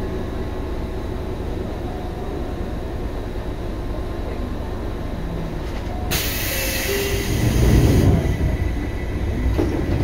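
Seibu 2000 series electric train heard from inside the car: a steady rumble of wheels on rail. About six seconds in, a sudden hiss cuts in for about two seconds, and the rumble grows louder for a moment.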